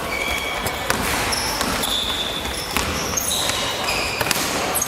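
Basketball game on an indoor court: many short, high sneaker squeaks on the floor and a few sharp thuds of the ball bouncing, over the steady noise of the hall.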